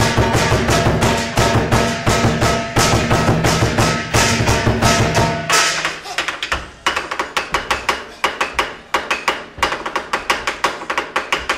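Fast, steady percussion music with evenly spaced drum strokes. About halfway through, the deep, full layer drops away and only lighter, sharper strikes continue.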